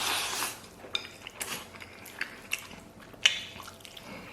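A person eating: a short rush of noise at the start, then scattered sharp clicks of a utensil against a bowl and small chewing sounds.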